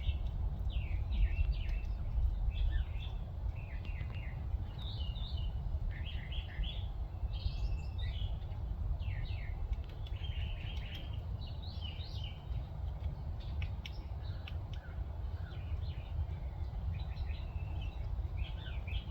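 Small songbirds chirping in quick, repeated clusters of short high notes all through, over a steady low rumble.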